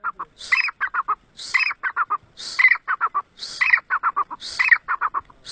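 Black francolin (kala teetar) calling over and over: each phrase is a harsh, grating opening note followed by a quick run of about four short clipped notes, and the phrase repeats about once a second.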